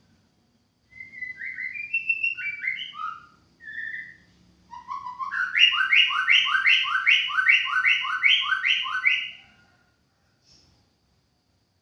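White-rumped shama singing: a few varied whistled phrases, then a fast run of about a dozen repeated notes, roughly three a second, that ends near the end.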